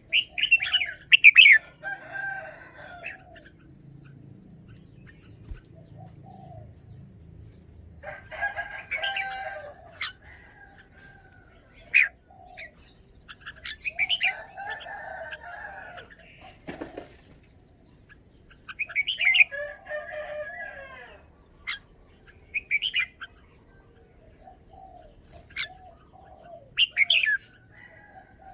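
Red-whiskered bulbul singing short, bubbling warbled phrases in bursts every few seconds, about six phrases in all, with a few sharp clicks between them.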